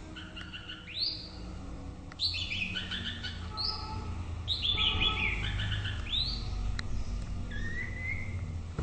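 White-rumped shama singing: a string of varied whistled phrases made of quick repeated notes and upward-sweeping whistles, closing with a short rising whistle near the end.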